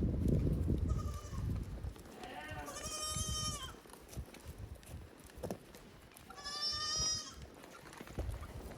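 A goat bleats twice, two long, high, wavering calls a few seconds apart, over a low rumbling background.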